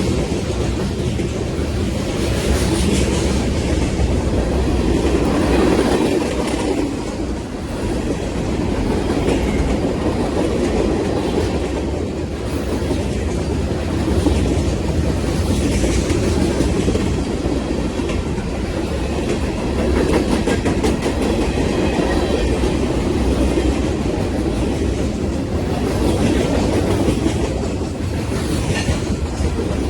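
Train moving along the track: a steady rumble with the clickety-clack of wheels passing over rail joints.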